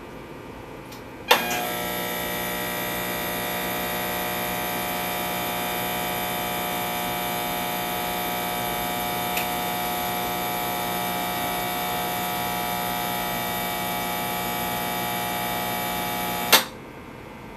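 Intoxilyzer 5000 breath-alcohol instrument's internal air pump clicks on and runs with a steady hum for about fifteen seconds, then cuts off with a click, purging the sample chamber between calibration-check readings.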